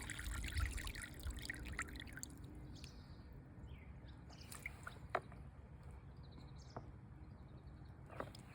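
Faint water trickling and dripping, with a few separate small drips standing out.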